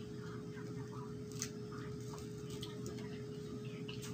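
Small wet clicks and smacks of close-miked chewing and mouth sounds, with one sharper click about a second and a half in, over a steady low hum.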